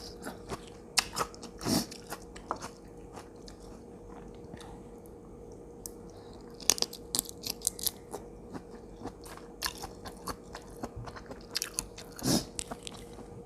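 Close-miked chewing of spicy Thai seafood papaya salad: crisp crunches in short runs, easing off for a couple of seconds a few seconds in, then picking up again. A faint steady hum runs underneath.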